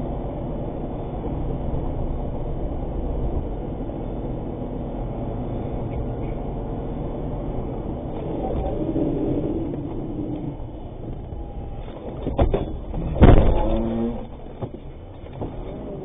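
Steady vehicle engine and road rumble. About twelve seconds in come a few sharp knocks, and just after them a loud bang, the loudest sound.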